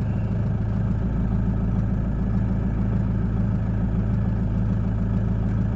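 Ute's engine idling steadily with an even low hum.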